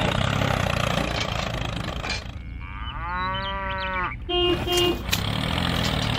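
A cow moos once in a long call about two and a half seconds in, followed right after by two short horn beeps, over a steady low engine rumble.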